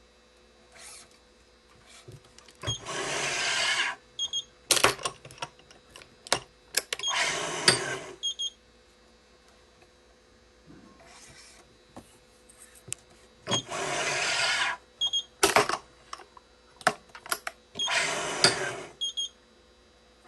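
Badminton main strings being pulled and tensioned on a Yonex ES5 Pro electronic stringing machine: four long rasping pulls of about a second each, in two pairs, with sharp clicks between them.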